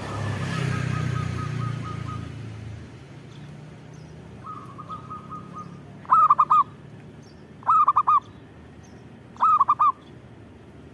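Zebra dove (perkutut) cooing: two faint trilled coo phrases, then three loud bursts of quick staccato coos in the second half, about a second and a half apart. A low rumble swells and fades in the first two seconds.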